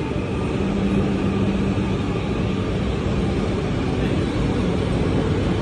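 E5 series Shinkansen train moving slowly along the platform, a steady rumble with a low hum that sounds for a second or two after about half a second.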